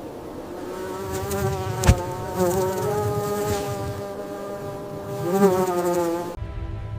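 A flying insect buzzing close by, its pitch steady with a few wavering bends as it moves, then cutting off suddenly near the end. A single sharp click sounds about two seconds in.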